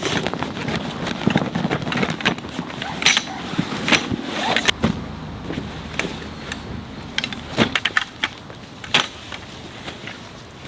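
Tent-pitching handling noise: camping gear being unpacked and set out, with irregular clicks and knocks over rustling, busier in the first half and sparser after about five seconds.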